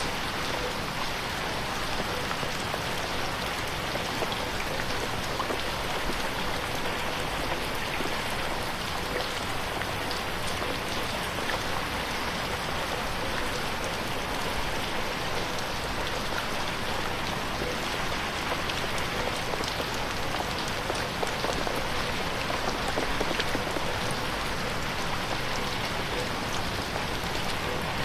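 Steady rain, drops pattering densely on a window pane.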